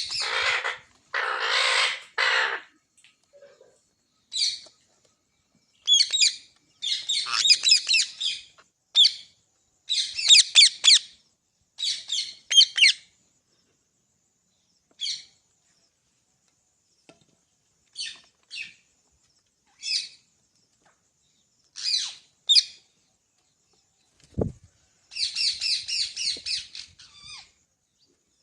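Pet green parrot calling: two long harsh screeches at the start, then a string of short, sharp high squawks and chirps in quick clusters with pauses between. A brief low thump comes shortly before a last burst of rapid calls near the end.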